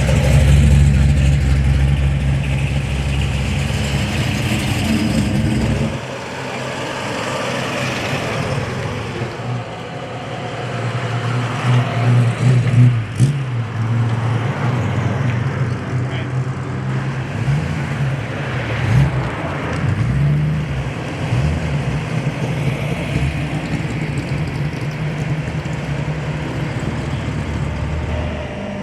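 Car engines running: a heavy, deep-sounding engine note that cuts off suddenly about six seconds in, then another engine idling with short revs a little after twelve seconds and again near nineteen seconds.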